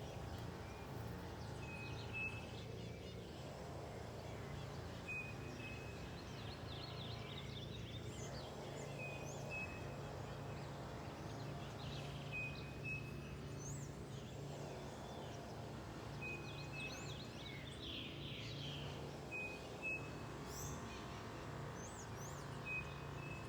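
Wild birds calling, one repeating a short, high double note every three to four seconds, with other quick chirps in between, over a steady low hum of background noise.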